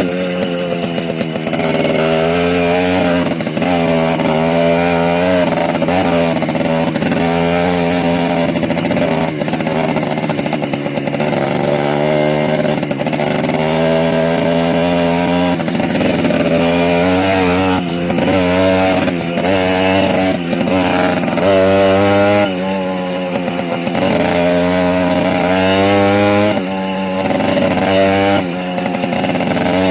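Small motorcycle engine running while riding, its pitch climbing and dropping over and over as it revs up and eases off, with a few brief dips in level near the end.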